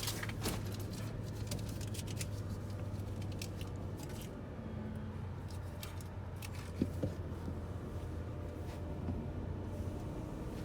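Steady low hum inside a car, with scattered light clicks over the first few seconds and a single knock about seven seconds in.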